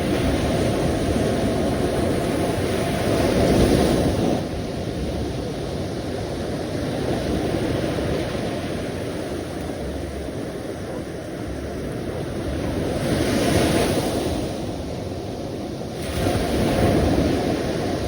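Sea waves washing in as a continuous rushing wash that swells louder three times: a few seconds in, about two-thirds through, and again near the end.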